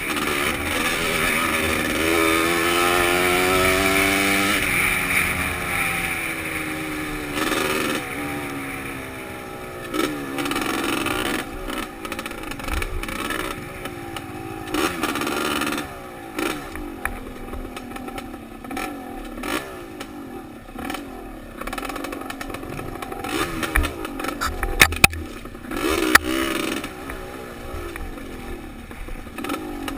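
Trail motorcycle engine heard from the rider's helmet, revving up and easing off again and again as the bike is ridden over the trail, with wind hiss. There is a cluster of sharp knocks and clatter about 25 seconds in.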